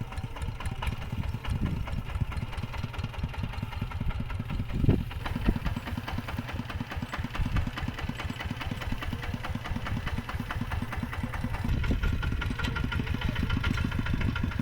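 Mini tractor engine running with a steady, rapid, even chugging, and a single louder knock about five seconds in.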